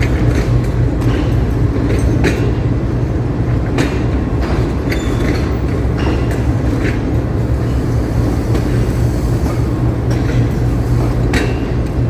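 Passenger train rolling past: a steady low rumble with the wheels clacking over rail joints in an uneven run of sharp clicks.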